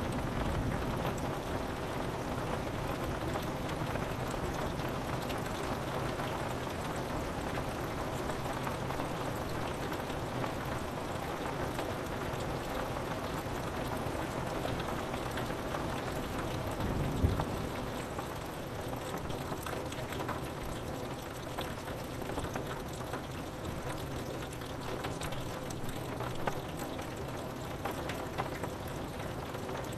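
Steady rain falling on window glass, an even hiss of drops. A little over halfway through, a brief low rumble of thunder rises out of it.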